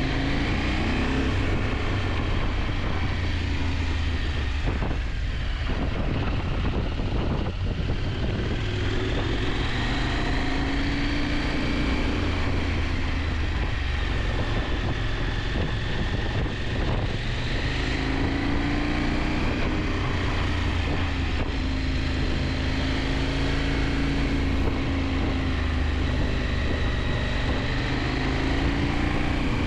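KTM 890 Adventure's parallel-twin engine running under way, its pitch rising and falling gently as the throttle and speed change.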